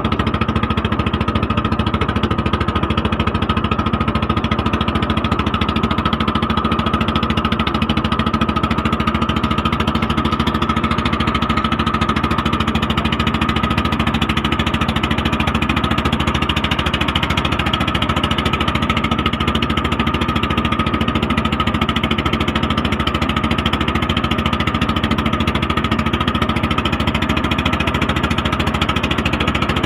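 A motorboat's engine running steadily at an even speed, with a fast regular knocking beat.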